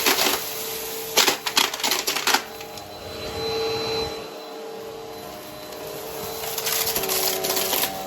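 Vacuum cleaner running with a steady motor hum, crackling and rattling as it sucks up crunchy debris. The crackles come in a dense cluster a little over a second in, and again near the end.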